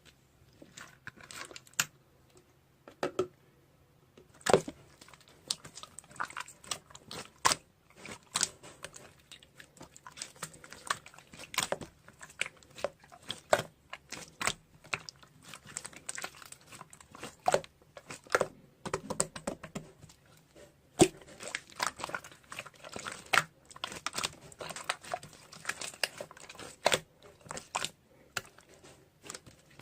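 Close, irregular crinkling, crunching and clicking sounds in a small room, with sharp crackles coming every second or so.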